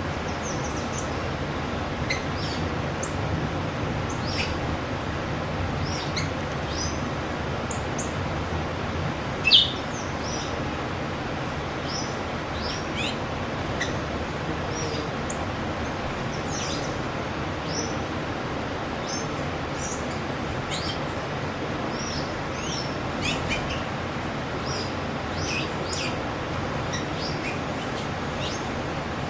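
Wild birds chirping: many short, high calls scattered throughout, one louder call about ten seconds in, over a steady low background rumble.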